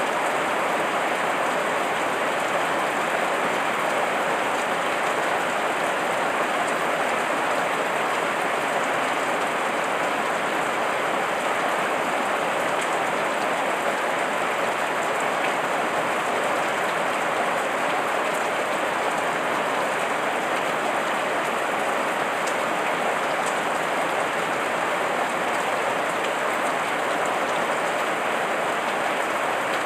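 Heavy rain falling steadily: an even, unbroken hiss of rain, with a few sharper drop ticks here and there.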